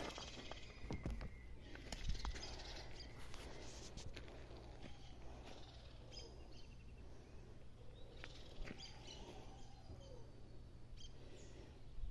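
Faint outdoor ambience with birds chirping here and there, a few sharp clicks near the start, and a steady low hum.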